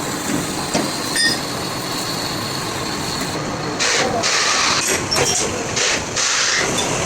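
Several short bursts of hissing air, about four to six and a half seconds in, over a steady mechanical rumble.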